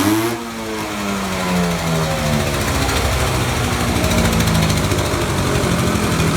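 Engine running hard under heavy load in a tug of war, its pitch sagging over the first couple of seconds and then holding steady, while the wheels dig into the ground.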